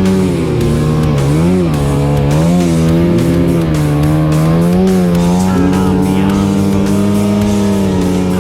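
Yamaha WR250F dirt bike's 250 cc four-stroke single-cylinder engine running at high revs. Its pitch drops about half a second in, wavers up and down for several seconds, then climbs back and holds steady.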